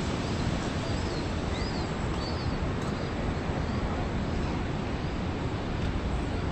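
Steady outdoor rushing noise, with a small bird's high, quick chirps repeating about twice a second through the first half.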